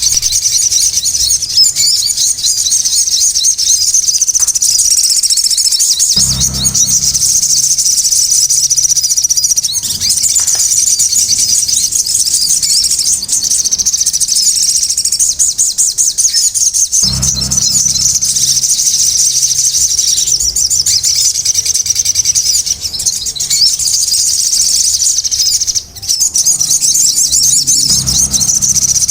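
Sogon bird calling in a continuous, rapid high-pitched chatter of chirps. Three brief low rumbles come in under it, about a third of the way in, past the middle, and near the end.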